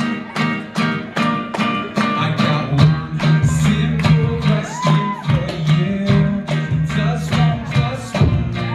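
Live band playing a song: an acoustic guitar is strummed in an even rhythm, and a low bass part joins about three seconds in. A sung melody comes in over it.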